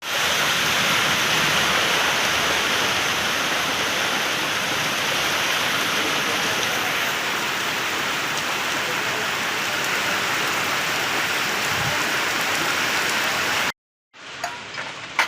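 Heavy rain falling, a steady dense hiss that cuts off suddenly near the end; after a short silence come fainter sounds with a few light clicks.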